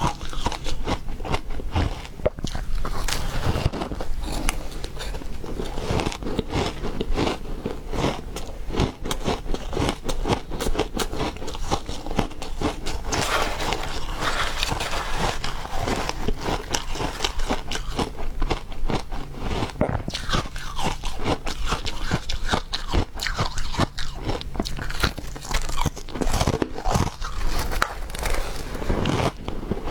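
Refrozen ice being bitten and chewed up close: a continuous run of irregular crunches and crackles.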